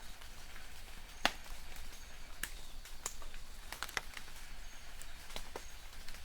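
Light rain in a forest: a steady soft patter with scattered sharp drips tapping on leaves, the loudest about a second in. A few faint, short, high bird chirps come from far off.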